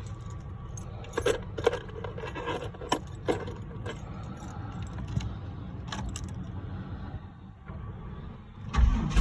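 Keys jangling with a few light clicks, then near the end a loud starter crank begins as the Camaro's small-block V8 is cranked for a cold start after sitting six months.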